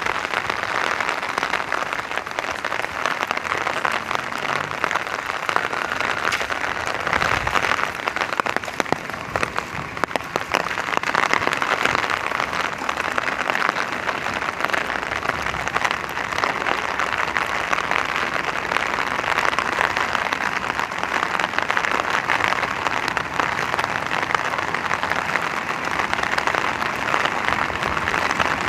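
Steady rain, a dense, even patter of drops.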